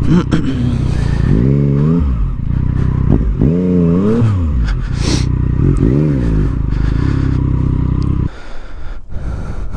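Motorcycle engine running, revved up and back down three times, then shut off about eight seconds in.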